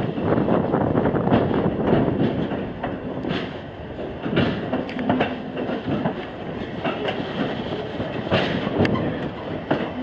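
Railroad train rolling on its rails, with a steady rumble and irregular clicks and knocks of the wheels over the track.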